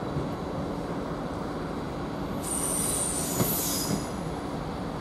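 Class 158 diesel multiple unit running into the platform with a steady rumble. A high-pitched squeal of wheels or brakes starts about halfway through and lasts about a second and a half.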